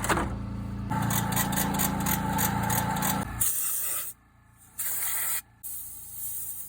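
A steady machine hum runs for about three seconds, then cuts off. It is followed by two short bursts of hissing spray and a fainter hiss near the end.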